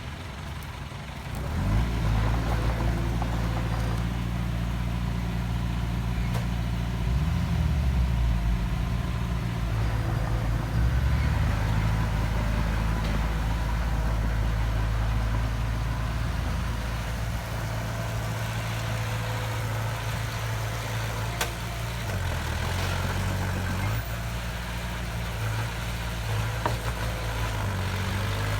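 Diesel engine of a heavy earthmoving machine running, coming up loud about a second and a half in and then holding steady, its pitch shifting briefly a few times as it changes revs.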